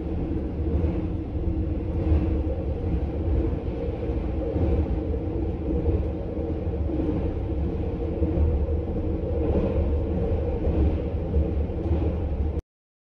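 Sunrise Seto sleeper train (285 series electric multiple unit) running over a steel truss bridge, heard from inside the carriage as a steady low rumble. It cuts off suddenly near the end.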